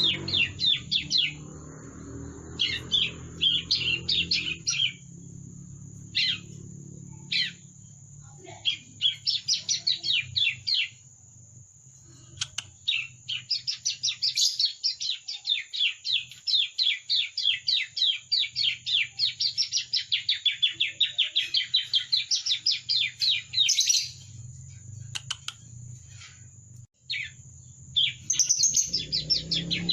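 Young bar-winged prinia (ciblek) practising its song: short runs of quick, high chirping notes, then a long unbroken rapid trill through the middle, and more chirp runs near the end. This is a juvenile's subsong, still being learned.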